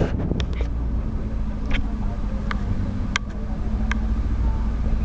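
A speedboat's motor running steadily, a low drone with a steady hum, with several short sharp knocks spread through it.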